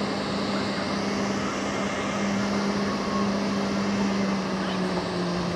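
Steady drone of aircraft engine noise at the airport, with a low steady hum underneath that holds one pitch throughout.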